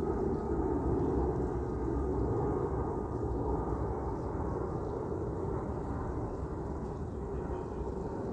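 Jet engines of a Boeing 757 freighter on final approach: a steady low rumble with a faint whine above it, slowly fading.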